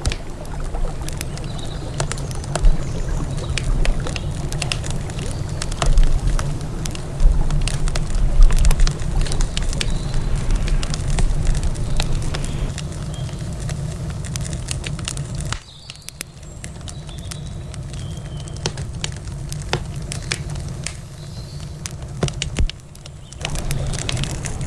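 Wood campfire crackling, with many sharp pops and snaps over a steady low rushing background. The background drops away abruptly past the middle for several seconds, then returns.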